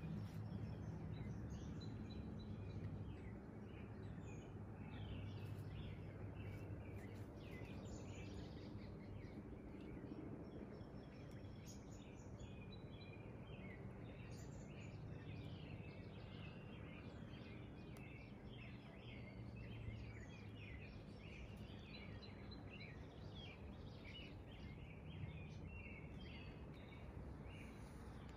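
Small birds chirping and singing, short repeated high notes that grow busier partway through, over a low steady background rumble.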